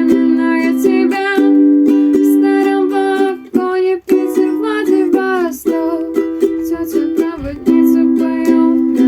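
Ukulele strumming chords in a cover song, with a melody line over the chords.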